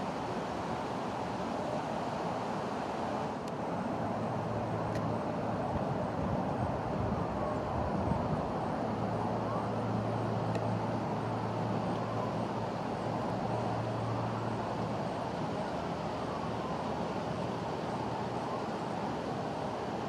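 Steady rush of strong wind outdoors. A low steady hum comes in about four seconds in and fades out about fifteen seconds in.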